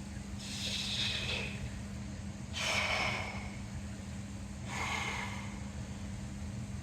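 A man breathing hard with exertion during a set of dumbbell curls: three heavy breaths about two seconds apart, one with each rep, over a steady low hum.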